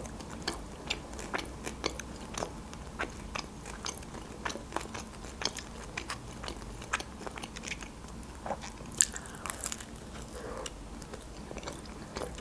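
A woman biting and chewing homemade pizza: irregular sharp mouth clicks and small crunches, roughly two a second, with a louder cluster about nine seconds in.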